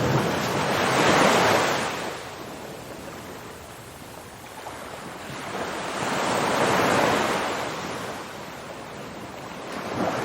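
Ocean surf: waves washing in and drawing back, two broad swells of rushing water about five seconds apart, with a third building near the end.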